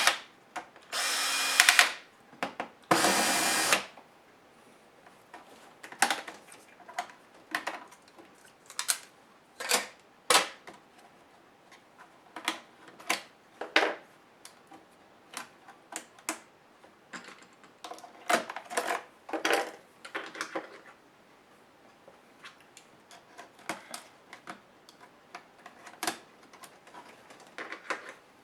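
Small power screwdriver whirring in two short runs of about a second each as laptop case screws are driven out, then a long series of light clicks and knocks from plastic laptop parts and screws being handled.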